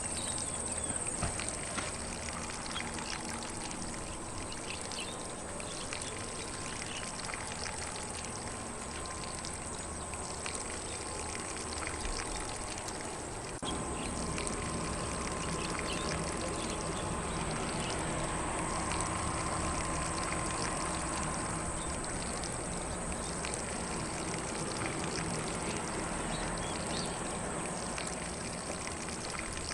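Lawn sprinkler spraying water onto grass, a steady hiss of spray, over a steady high-pitched hum and a few faint bird chirps. The spray grows slightly louder about halfway through.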